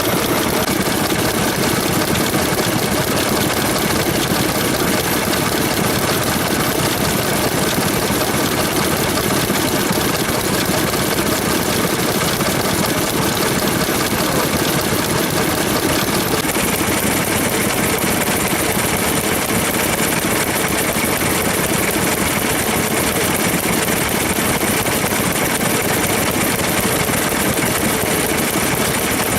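Vintage Japanese stationary engine (hatsudōki) running steadily at an even speed. The character of the sound changes abruptly about sixteen seconds in.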